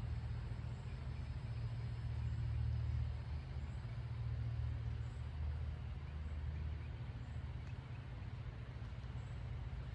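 A steady low rumble that swells and eases a little without stopping.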